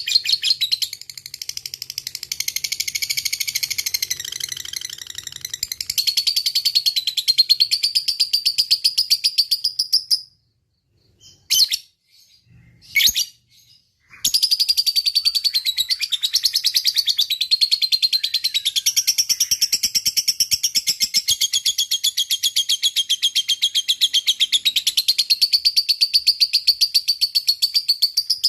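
A lovebird's long 'ngekek' chatter: a fast, unbroken run of high, shrill chirps. It stops for about four seconds midway, apart from a couple of short calls, then picks up again and runs on.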